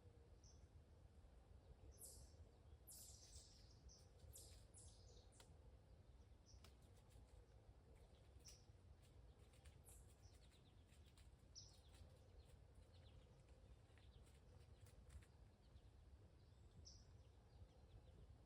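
Faint bird chirps and short high calls scattered over a low background rumble of woodland ambience. The calls are busiest in the first five seconds, with a few more around the middle and near the end.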